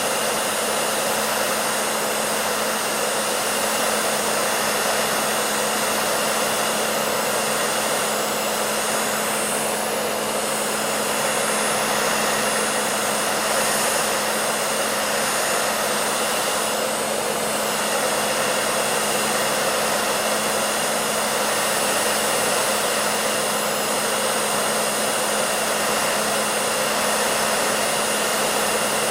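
Electric hair dryer running steadily: an even rush of blown air over a constant motor hum.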